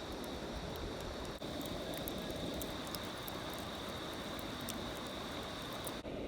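Small wood campfire burning with scattered faint crackles and pops over a steady background hiss, with a constant high-pitched hum.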